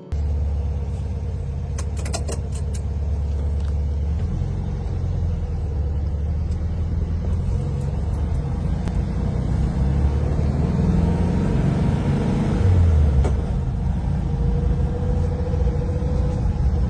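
A car engine running with a steady low rumble, swelling slightly about three-quarters of the way through.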